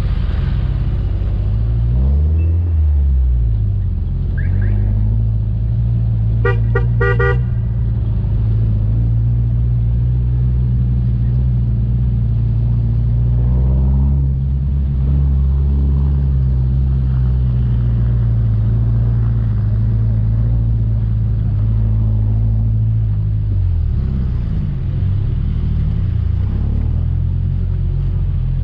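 Off-road 4x4's engine running steadily under load on a dirt track, its revs dipping and climbing again a couple of seconds in and near the end. A quick series of short horn toots sounds about seven seconds in.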